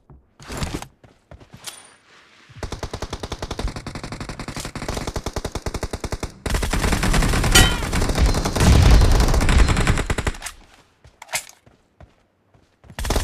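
Automatic gunfire from a first-person shooter video game: a long stream of rapid shots starting about two and a half seconds in, turning louder and heavier from about six and a half seconds until about ten seconds, then one short burst near the end.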